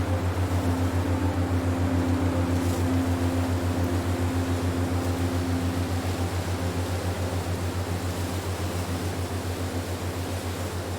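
Low, steady electronic-style drone pulsing rapidly and evenly, with a fainter held tone above it and a soft hiss like wind, easing slightly toward the end.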